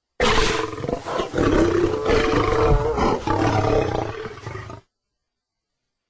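Big-cat roar sound effect: one rough roar lasting about four and a half seconds that starts suddenly and cuts off abruptly.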